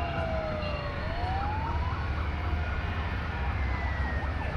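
A siren wailing: its pitch falls slowly, then rises again about a second in. Under it runs the steady low rumble of passing motorcycle engines.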